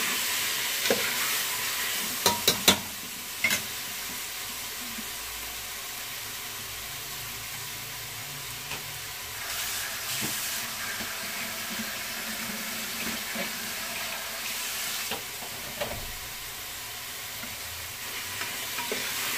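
Chopped vegetables sizzling steadily as they fry in an aluminium pot. A metal spoon stirs them, clanking sharply against the pot a few times a couple of seconds in and a few more times near the end.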